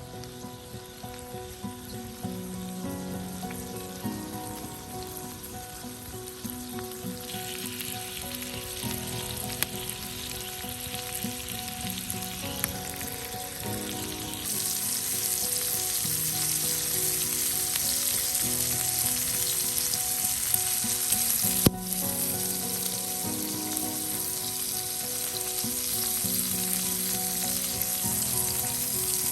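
Meat-wrapped asparagus frying in oil in a pan over a campfire, a steady sizzle that grows louder about seven seconds in and again about halfway through. A single sharp click near the end.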